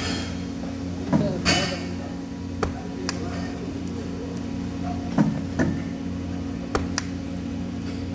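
Steady low machine hum in a workshop, broken by a series of short, sharp knocks and clanks, roughly one every second or so.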